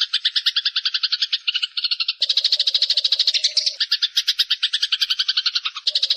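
A songbird masteran (training) recording: several layered bird calls made of fast, evenly repeated chattering notes, about ten a second. The mix shifts about two seconds in and again near the end, when a lower, steadier note joins.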